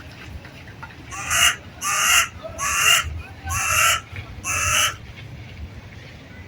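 A bird's harsh calls, five in a row about two-thirds of a second apart.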